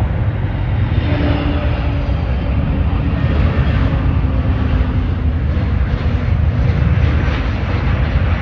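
Jet airliner's engines running loud as the aircraft passes: a steady heavy rumble with a hiss above it, and a faint tone that drops slightly in pitch in the first few seconds.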